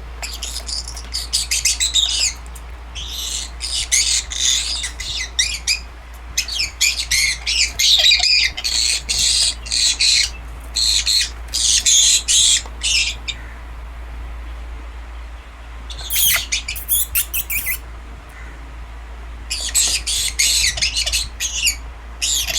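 Pineapple conure (a green-cheeked conure colour variety) squawking in rapid runs of harsh, high-pitched screeches, with a long pause a little past halfway and a shorter one near the end.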